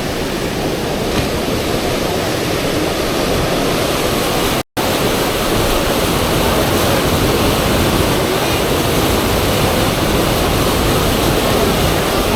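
Fast river water rushing steadily over a standing surf wave. The sound cuts out completely for an instant about five seconds in.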